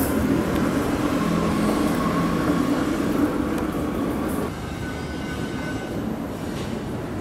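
Steady mechanical drone of a train standing at a station platform, with a few low humming tones held through it. The level drops a little about four and a half seconds in.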